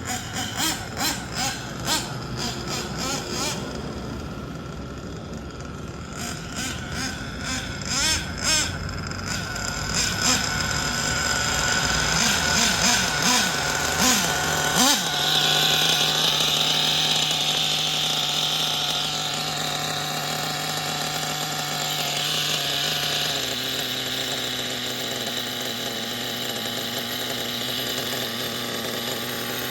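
Small nitro glow engine of a Kyosho Inferno NEO ST 3.0 RC truggy, blipped in quick bursts of revs, then held at a steady speed that drops to a lower steady note about two thirds of the way through.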